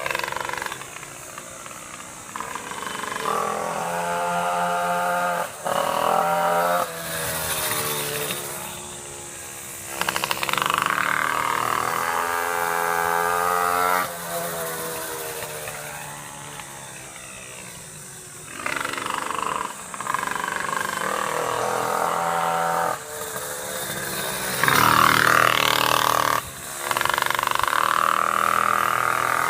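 Pocket bikes' small high-revving engines passing again and again, each pass rising and then falling in pitch as the rider accelerates and backs off.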